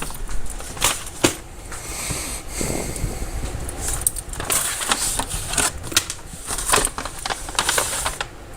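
Handling noise: rustling with scattered short clicks and knocks, as belongings are moved about close to a body-worn microphone.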